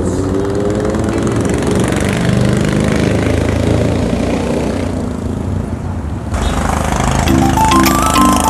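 Motorcycle engine running while riding, its pitch rising in the first second or two as it speeds up, with road and wind noise. Music comes in about six seconds in.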